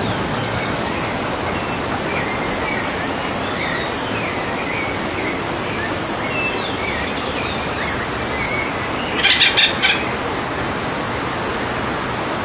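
Outdoor ambience with a steady hiss and faint bird chirps throughout, and a brief burst of several rapid, harsh strokes about nine seconds in.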